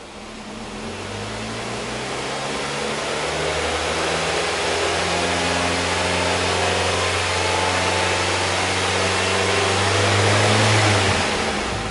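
Nissan Serena Highway Star minivan's engine and exhaust running with a steady hum. It grows louder over the first few seconds, holds, then drops off sharply near the end.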